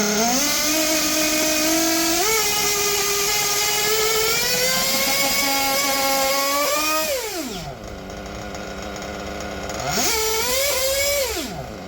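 O.S. R21 GT two-stroke nitro engine in an RC touring car running at high revs under throttle, the pitch stepping up in the first couple of seconds and holding high. The revs fall sharply to idle about seven seconds in, then there is one more short burst of throttle near the end.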